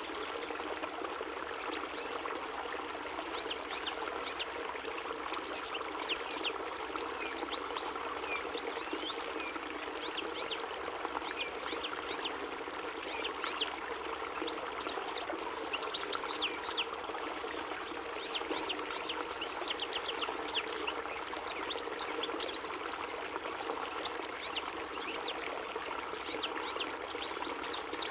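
European goldfinch singing: quick, tinkling twitters and trills repeated throughout, busiest in the middle, over a steady rushing background noise.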